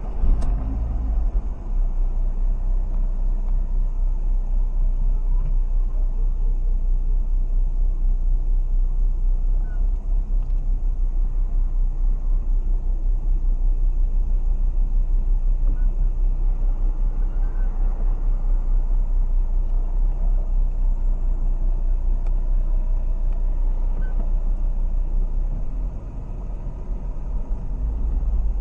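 Steady low rumble of a Porsche Panamera being driven, heard from inside the cabin: engine and tyre noise with a deep, even drone.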